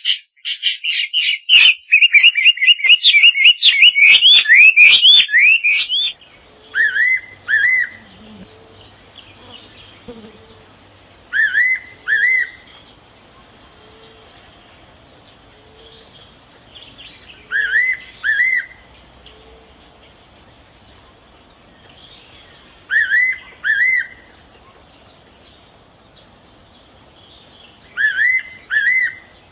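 Birds singing: a loud, fast run of repeated chattering notes for about six seconds, then a bird calling in pairs of quick rising whistled notes, one pair about every five seconds, over a faint steady high whine.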